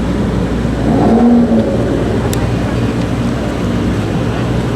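BMW M5 F10's twin-turbo V8, with an Akrapovic exhaust and tuned to about 700 hp, idling, with one short rev blip about a second in that climbs, holds briefly and falls back to idle.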